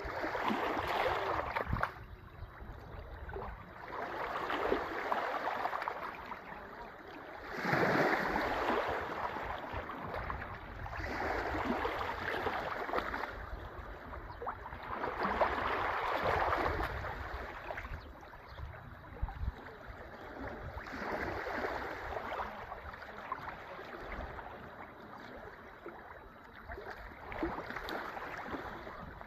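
Sea waves breaking and washing up the shore, one surge of surf every three to four seconds, about seven in all. Wind buffets the microphone underneath.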